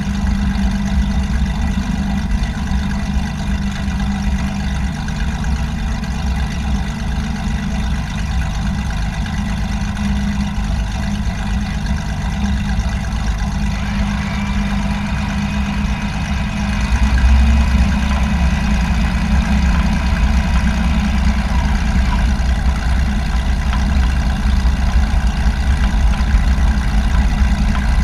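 Light aircraft engine droning steadily, louder about 17 seconds in.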